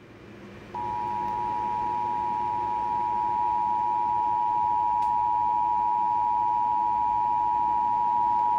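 Emergency Alert System attention signal on the radio: a steady two-note electronic tone that starts about a second in and holds unbroken, announcing a severe thunderstorm warning.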